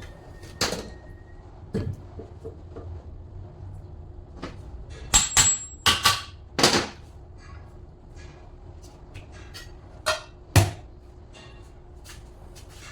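Irregular sharp knocks and clatters of tools and metal parts being handled while an alternator is worked on. A quick cluster comes in the middle, and two louder strikes come about ten seconds in.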